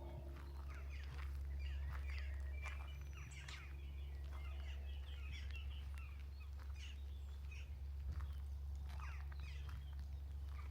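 Several small songbirds chirping and trilling in short phrases over a steady low rumble.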